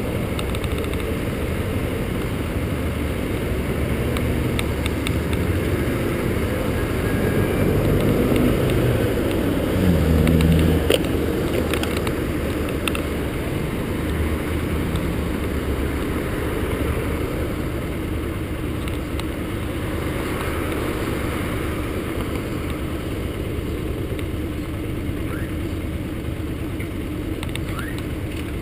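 Yamaha XTZ125's single-cylinder four-stroke engine idling steadily while stopped, with city traffic passing; a passing vehicle swells louder about ten seconds in.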